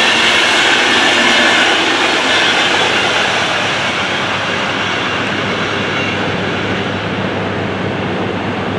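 A train running past on the riverside line, its wheel-on-rail noise fading slowly as it moves away.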